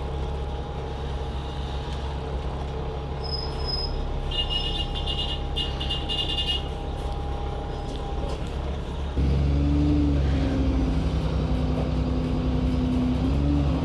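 Alexander Dennis Enviro400 diesel double-decker bus with a Voith automatic gearbox, heard from on board: the engine runs steadily, then about nine seconds in it suddenly gets louder, as when the bus pulls away under power. A rapid high beeping sounds for about two seconds near the middle.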